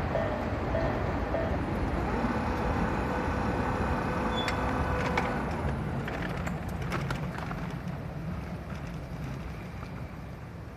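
Tobu 8000 series electric train drawing away past a level crossing, its rumble fading steadily. A repeating level-crossing bell tone stops about a second and a half in.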